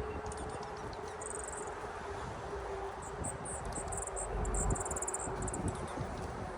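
Small wild birds calling with rapid runs of very high, thin chips, once about a second in and then repeatedly from about three to six seconds in, over a steady low hum and a low rumble.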